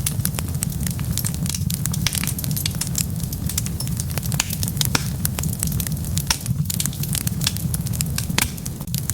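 Wood fire burning, with many irregular crackles and sharp pops over a steady low rumble.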